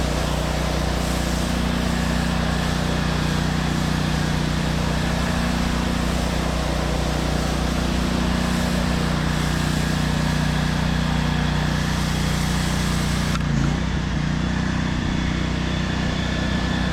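Pressure washer spraying water onto concrete: a steady hiss of spray over the steady hum of the machine. The spray cuts off suddenly near the end while the machine keeps running.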